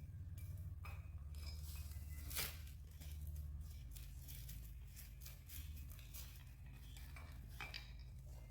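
Scattered light clinks and taps of metal tools and engine parts being handled, one sharper clink about two seconds in, over a low steady hum.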